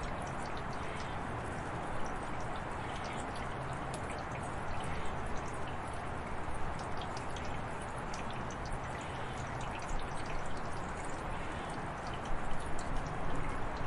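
Steady heavy rain: a dense, even hiss with many sharp individual drop and drip hits, and a few louder splashes near the end.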